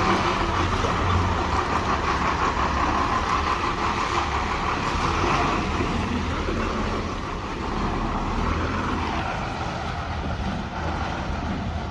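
Heavy vehicle engine running steadily, easing off a little about seven seconds in.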